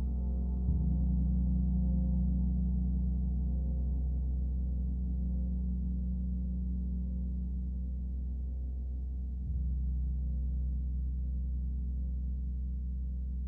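Gong ringing with a deep, sustained, slowly fading hum. It is struck lightly again under a second in and once more about nine and a half seconds in.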